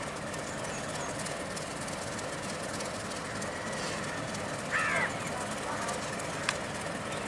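Commuter train departing, giving a steady running noise. A brief high call cuts in about five seconds in, and a single sharp click comes a little later.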